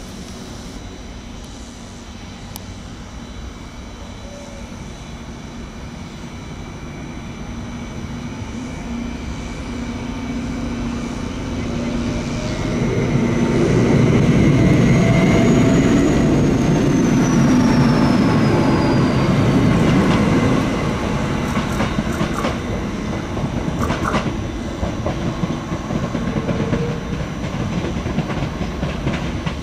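Stadler WINK bimodal multiple unit pulling out and passing close by. Its running noise builds to a peak as it goes past, with a high whine that rises and then falls in pitch. As it draws away, its wheels clatter and knock over rail joints and points.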